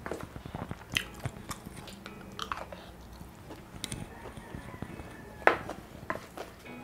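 Close-up chewing and mouth sounds of eating shawarma rice, with a wooden spoon scraping in a foil-lined tray as a spoonful is scooped. Scattered small clicks throughout, the sharpest one about five and a half seconds in.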